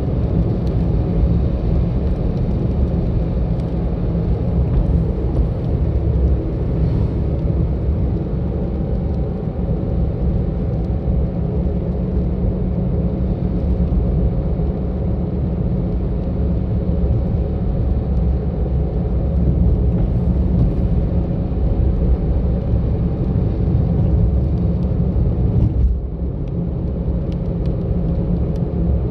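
A car driving on a winding road, with steady low engine and road rumble and a constant engine hum; the level drops briefly near the end.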